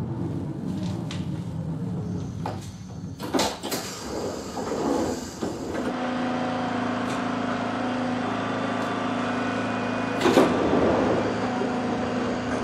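Berlin S-Bahn class 485 electric train pulling into a station from the inside: the running rumble dies away, a few sharp clunks come about three seconds in, and then the standing train gives a steady hum of its on-board equipment. A short rush of noise, like a door, comes about ten seconds in.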